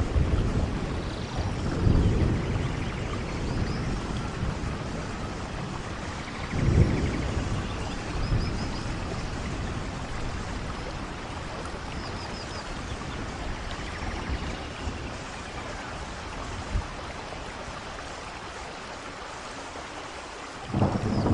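Steady rain and falling water, with low rumbles of thunder swelling about two seconds in and again around seven seconds. A few faint, short, high chirps sound in between.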